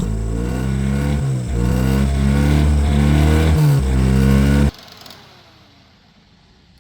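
Car engine running loudly, its revs dipping and recovering twice, then shut off abruptly about four and a half seconds in.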